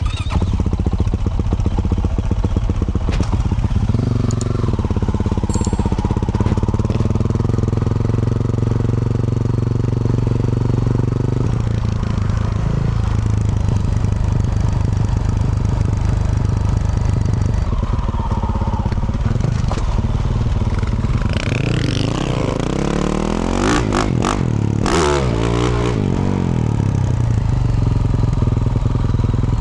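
2024 Yamaha YZ450F's single-cylinder four-stroke engine through a Yoshimura RS-12 exhaust, ridden under way. It holds a steady pace, then the revs rise and fall through gear changes with a few sharp knocks about two-thirds of the way in.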